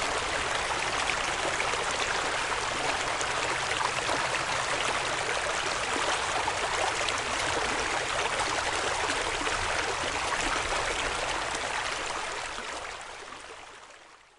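Small mountain creek running over rocks, a steady rushing and trickling of water, fading out over the last couple of seconds.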